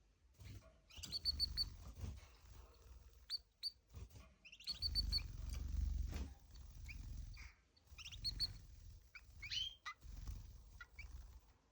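Canary singing: quick runs of three or four short high notes, rising sweeps and scattered chirps, broken by short pauses. Low rumbling noise comes and goes underneath.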